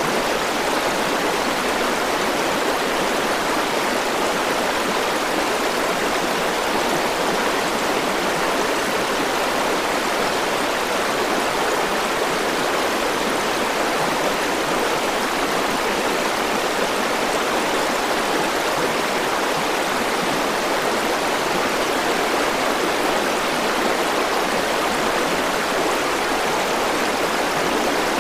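A small river flowing over rocks, rushing steadily without change.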